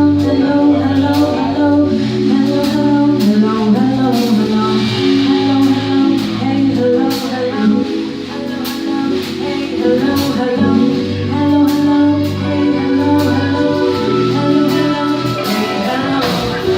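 A live band plays a slow soul/R&B groove: a bass line and sustained chords under steady, evenly spaced drum and tambourine hits.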